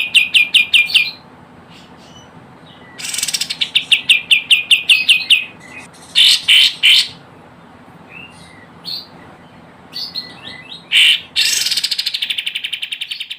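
Kapas tembak, a bulbul, singing in rapid trills of evenly repeated notes, about eight a second, broken by a few short separate calls. This is a lure recording meant to draw wild kapas tembak.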